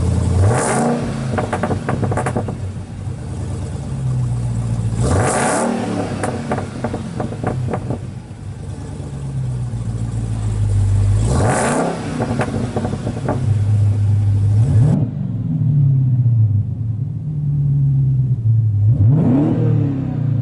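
Supercharged 6.2-litre HEMI V8 of a 2015 Dodge Challenger Hellcat, running through a 3-inch 409 stainless dual aftermarket exhaust. It idles and is blipped four times, each rev rising and dropping back to idle.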